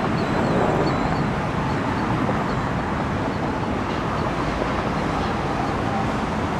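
Steady noise of jet aircraft engines running, with faint high chirps repeating over it.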